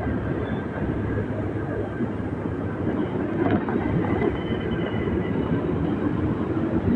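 Motorbike engine running steadily during a ride, mixed with wind and road rumble.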